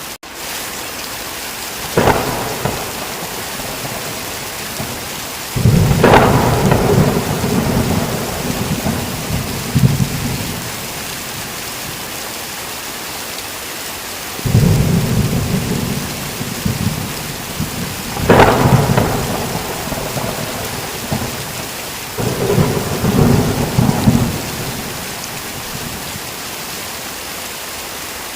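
Steady heavy rain with repeated thunder: a short sharp crack about two seconds in, then four long rolling rumbles through the middle and toward the end, one of them opening with a sharp crack.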